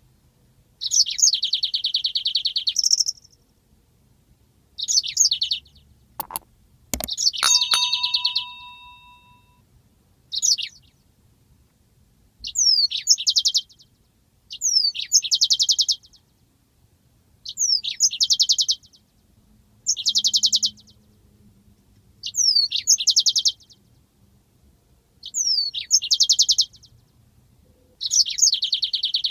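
Yellow-fronted canary (Mozambique canary) singing its long rolling song, repeated phrases every two to three seconds, each a quick falling whistle followed by a fast buzzy trill held for a second or two. Two sharp clicks about six seconds in.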